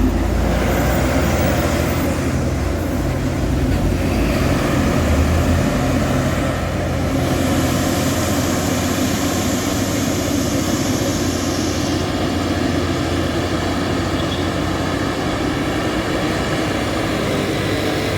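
Heavy truck's diesel engine running steadily under load, with a hiss in the upper range for several seconds in the middle.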